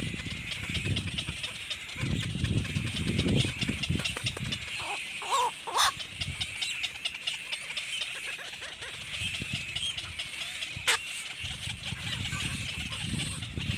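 Birds chirping: a steady, rapid high chirping throughout, with a few louder single calls about five, six and eleven seconds in, over low rumbling noise.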